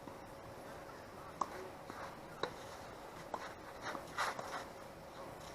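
Tennis ball impacts on the court: three short sharp knocks about a second apart, followed by a few softer scuffs.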